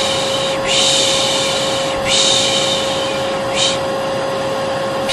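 Hair dryer running steadily with a constant whine, overlaid by a voice shushing "shhh" over and over, each shush about a second and a half long with a short break between them. It is white noise for calming a colicky baby.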